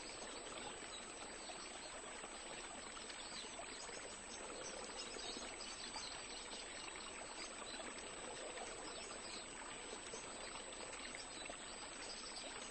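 Faint, steady water-like hiss of outdoor ambience, with no distinct calls or knocks.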